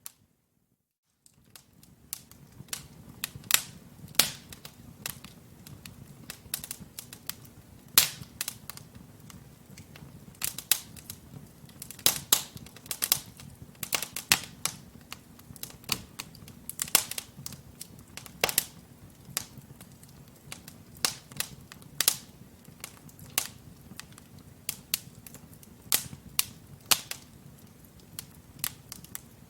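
Wood fire crackling in a fireplace: burning logs giving off irregular sharp pops and snaps, several a second, over a steady low rumble of flame. The sound starts after a brief silence.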